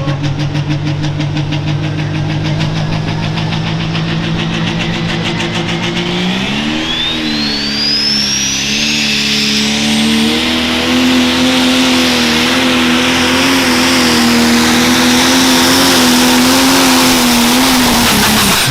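Turbocharged pro stock pulling tractor's diesel engine running steadily at low speed, then throttled up about six seconds in. The pitch jumps, a turbocharger whine climbs steeply, and the engine runs at high speed under load. It cuts off suddenly near the end.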